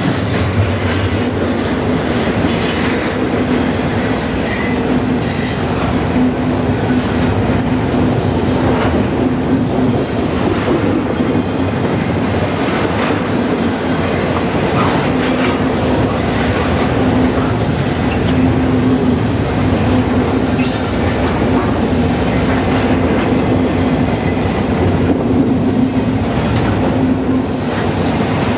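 Double-stack container well cars of a freight train rolling past close by. A steady, loud rumble of steel wheels on rail with a steady low drone and scattered clicks of wheels over the rail.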